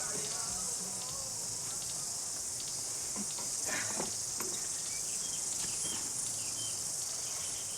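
Steady high-pitched chorus of insects chirping outdoors, with a few faint short chirps over it. The tail of a music track stops about a second in.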